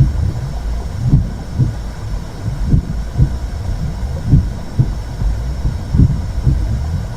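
Womb sound: a muffled double-beat heartbeat, about one lub-dub every second and a half, over a steady low whooshing rumble.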